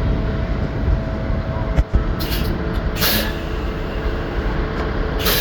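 Steady low rumble of heavy engines running at a subway track-repair work site, with a faint steady hum. A sharp click comes a little under two seconds in, and short hisses of air sound about two, three and five seconds in.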